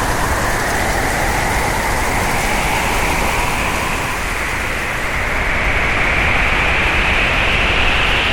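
Hurricane wind howling steadily over a constant rush. A whistling tone in it slowly rises in pitch and grows a little louder in the second half.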